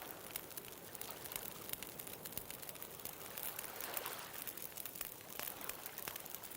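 Wood bonfire crackling, with many quick sharp pops and snaps, over a soft steady wash of ocean surf that swells briefly about four seconds in.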